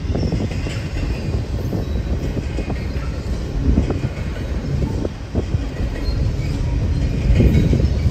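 Freight train cars rolling past close by: a steady heavy rumble with irregular clicks and knocks of the wheels over rail joints, and a few faint, brief high-pitched wheel squeals.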